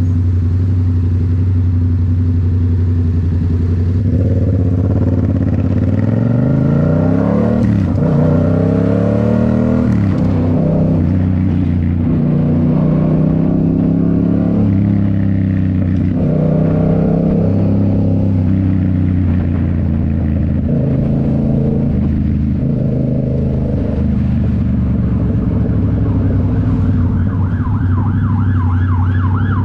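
Yamaha MT-07's 689 cc parallel-twin engine running through a Toce full exhaust while riding: a steady drone, rising in pitch through several gear changes early on, then repeated surges of throttle. A wailing emergency siren joins near the end.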